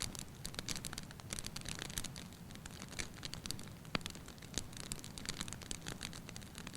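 Wood fire burning in a hearth, crackling with frequent sharp pops over a low steady rumble of flames; one louder pop about four seconds in.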